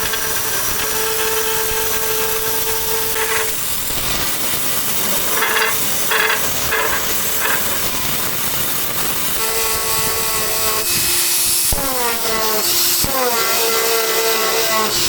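A power woodworking tool's electric motor whines steadily over a rushing noise. Several times in the last few seconds its pitch drops and climbs back.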